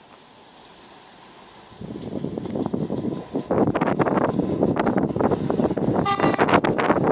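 Freight train hauled by an electric locomotive approaching, its rumble growing sharply louder from about two seconds in, with wind buffeting the microphone. A brief high-pitched tone sounds about six seconds in.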